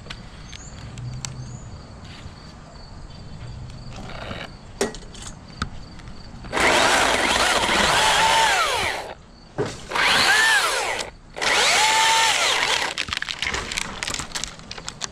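Chainsaw revved in three bursts, the first about two and a half seconds long and the next two shorter. The pitch sags and climbs within each burst as the saw cuts.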